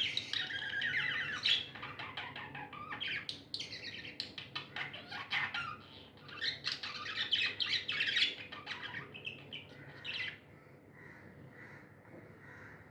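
Pet budgerigars chirping and squawking in dense, overlapping chatter, which turns fainter about ten seconds in.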